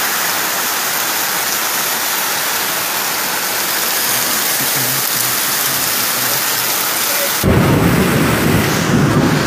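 Heavy rain pouring down in a steady hiss. About three-quarters of the way in, a deep low rumbling sets in beneath it.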